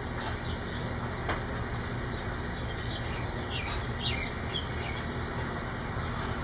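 Steady rain falling, with short bird chirps over it.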